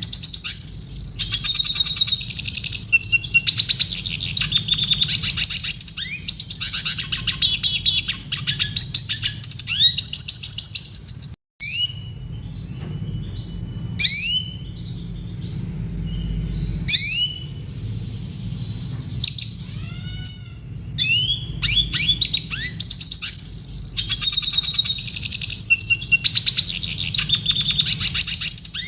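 Red siskin singing: long runs of fast, high twittering song, cut off by a brief dropout about a third of the way in and thinning to scattered calls for several seconds before the dense twittering resumes. A low steady hum runs underneath.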